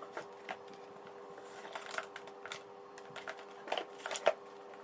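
Scattered small clicks and taps as Toshiba vacuum cleaner parts and the switch wiring are handled and fitted, with a denser run of clicks near the end, over a faint steady hum.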